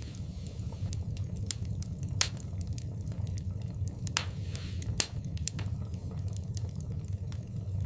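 Wood fire crackling in a fireplace: scattered sharp pops and snaps over a steady low rumble, with a brief hiss about four seconds in. Two louder pops stand out, about two and five seconds in.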